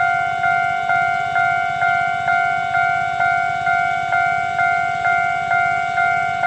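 Railway level-crossing warning bell ringing, a steady ding repeated about twice a second, each strike ringing out before the next.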